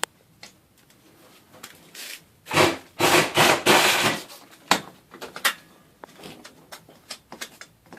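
Scattered clicks and knocks of garage door hardware being handled. About two and a half seconds in comes a loud scraping and rubbing that lasts under two seconds.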